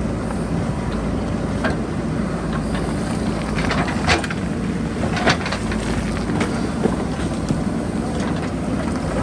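JCB backhoe loader's diesel engine running steadily under work, with several sharp knocks and clanks from the bucket and rocks, the loudest a few seconds in and again about five seconds in.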